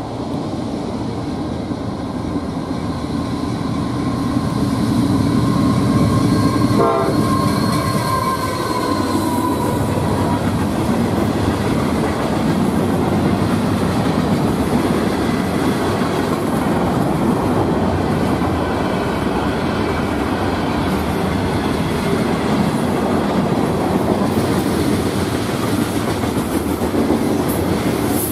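CSX freight train passing close by: the locomotive horn sounds a held chord through the first several seconds and fades out about ten seconds in. After that comes the steady rumble and wheel clickety-clack of loaded hopper and gondola cars rolling past.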